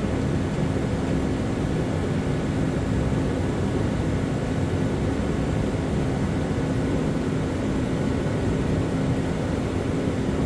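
A loud, steady machine drone with a constant low hum that holds unchanged throughout.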